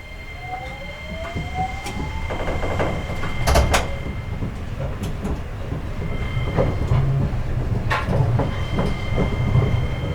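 Seibu 8500 series Leo Liner pulling away, its Hitachi IGBT-VVVF inverter giving a rising whine over the first two seconds. Running noise then builds into a low rumble with repeated sharp knocks.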